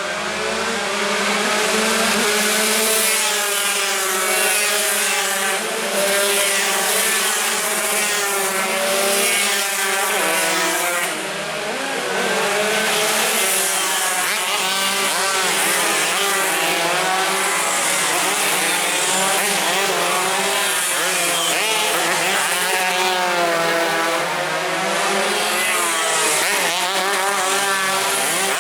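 A pack of tuned 140cc two-stroke sport motorcycles racing, many engines overlapping and revving hard, their pitch rising and falling as they shift gears and pass by.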